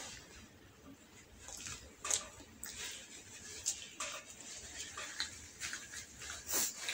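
Close-miked chewing of a soft rolled omelette, a run of wet smacks and mouth clicks, with a louder tissue rustle near the end.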